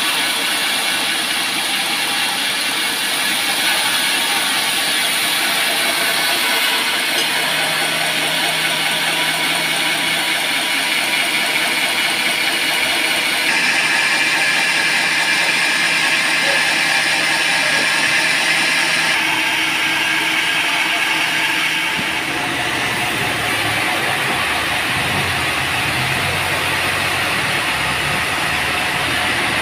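Band sawmill running, its blade cutting through a teak log with a steady high hiss over the drone of the machine. The sound changes abruptly a few times, and a deeper drone joins in near the end.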